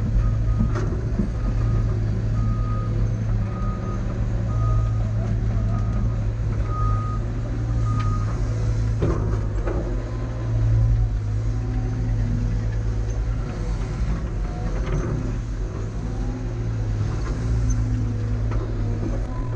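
Heavy diesel engine of a CAT excavator running steadily under work. A backup alarm beeps about once every 0.7 seconds for the first eight seconds, then stops. A few knocks come about nine seconds in.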